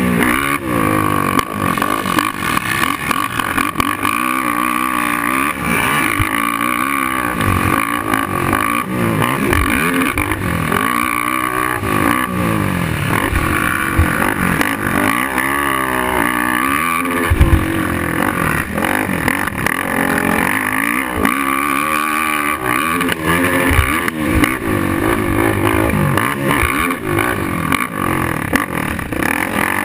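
Suzuki LTR 450 quad's single-cylinder four-stroke engine revving hard, its pitch climbing and dropping again and again as the throttle is worked, with a brief sharp knock a little past halfway.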